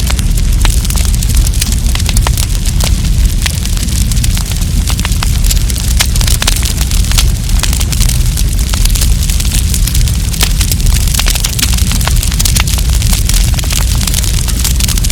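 Wood campfire crackling steadily with many sharp pops over a low rumble.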